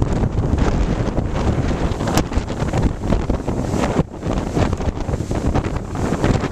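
Strong wind buffeting the microphone aboard a sailboat under way, with water rushing along the hull; the level swells and dips unevenly with the gusts.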